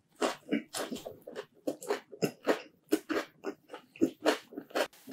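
Close-miked chewing of a mouthful of pineapple pizza topped with cucumber slices, about four chews a second.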